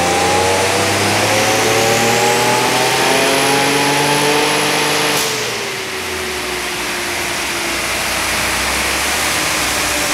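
Turbocharged Infiniti G35 coupe's 3.5-litre V6 making a pull on a chassis dyno, its revs climbing steadily for about five seconds with a high whine rising over the engine note. At about five seconds it lets off with a sharp burst, and the revs fall away to a lower, steady running.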